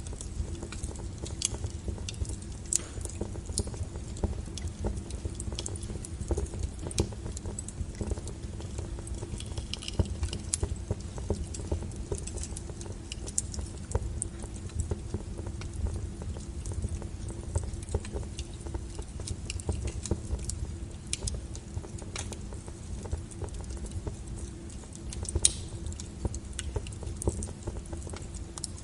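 Wood fire burning with irregular sharp crackles and pops over a steady low rumble of the flames, one louder pop near the end.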